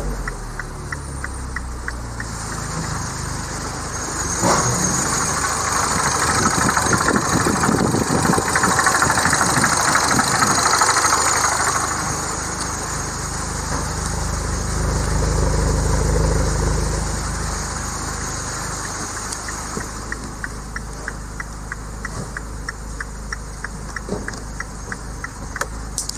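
MINI John Cooper Works R56's N14B16C 1.6-litre turbocharged four-cylinder engine running at idle just after starting. A sharp knock comes about four and a half seconds in, the engine grows louder for several seconds and swells again in the middle, and a light regular ticking is heard near the start and end.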